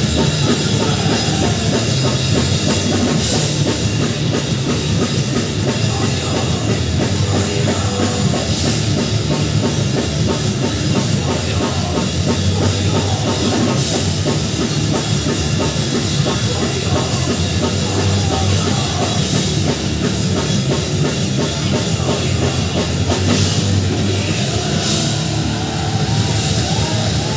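A rock band playing live in a heavy-metal style, loud and continuous, with a drum kit driving it.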